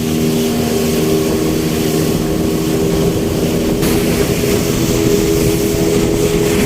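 Motorboat engine running steadily at speed, a constant pitched drone under a dense rush of wind and water noise.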